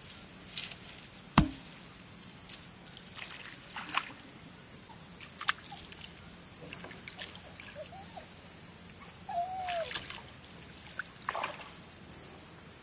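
Scattered small water splashes and trickling with a few short bird chirps, and one sharp knock about a second and a half in.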